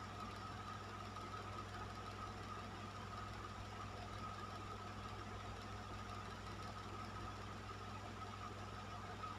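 Electric fan running steadily: an even rush of moving air over a constant low motor hum and a steady higher tone, with no change in speed.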